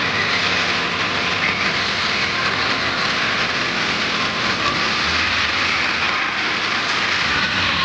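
Stadium crowd and fireworks display together making a dense, steady roar, with no single bang standing out.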